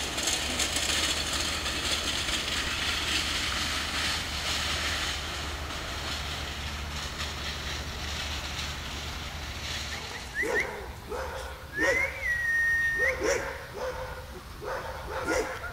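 A steady rushing noise with a low hum, then, from about ten seconds in, huskies yipping and whining in short, bending calls, including one long, high, whistle-like call.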